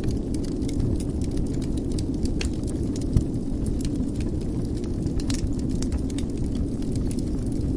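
Wood fire burning in a fireplace: a steady low rumble of the flames with irregular crackles and pops, one sharper pop about three seconds in.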